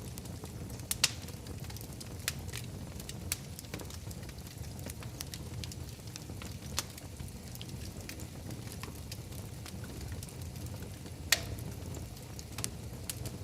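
Wood fire crackling in a fireplace: a steady low rumble of flames with scattered sharp pops, the loudest about a second in and again near the end.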